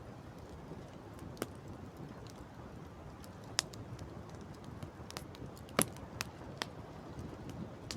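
Wood campfire crackling: sharp pops come at irregular moments, the loudest about six seconds in, over a steady low rushing background.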